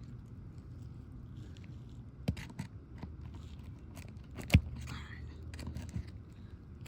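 Hand work on asphalt roof shingles: a few sharp clicks and knocks, the loudest about two-thirds of the way through, with scraping, as the remaining nails are pried out from under the shingles. A steady low hum underneath.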